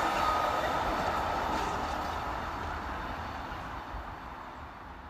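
A freight train of empty container flat wagons rolling away along the line, its wheel-on-rail rumble fading steadily.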